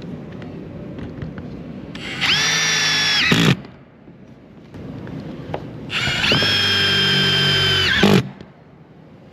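Power drill running twice, each time winding up quickly to a steady high whine and then stopping, the second run longer than the first.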